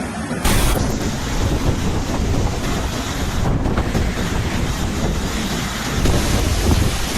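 Strong storm wind blowing across the microphone: a dense, steady rush that starts abruptly about half a second in.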